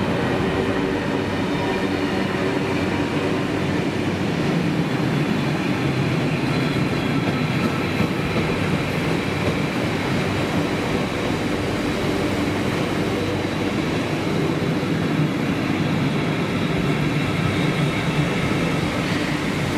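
Freight train of bogie tank wagons passing at speed, a steady rumble of wheels on rail with faint high ringing tones above it.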